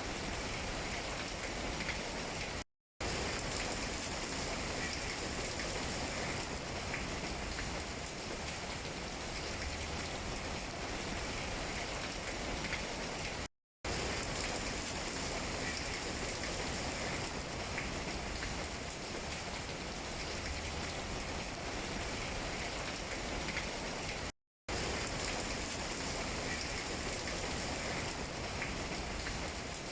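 Steady rain falling on tree leaves: an even hiss with scattered drips. Three times, about eleven seconds apart, the sound cuts out completely for a split second.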